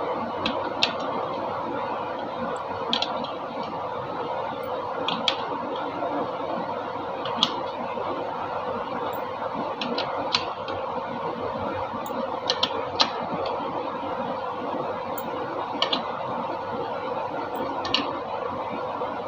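A steady mechanical whirring hum with about a dozen short, sharp clicks at irregular intervals, some in quick pairs.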